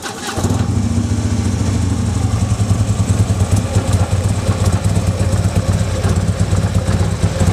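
2015 Harley-Davidson Ultra Limited's V-twin catching just after the starter and settling into a steady idle, a deep, pulsing exhaust note through a cat-less Jackpot 2-into-1-into-2 head pipe and Vance & Hines Oversized 450 slip-on mufflers.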